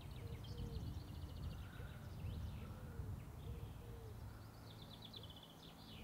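Birds calling: bursts of quick high chirps near the start and again near the end, and a string of short, lower calls, over a steady low rumble of outdoor ambience.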